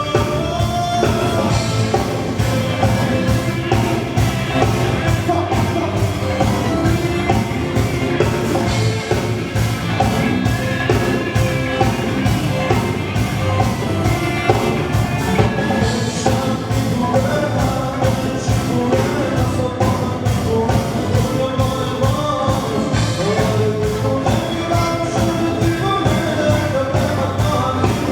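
Live band playing an up-tempo song with a steady drum beat, bass, keyboard and percussion.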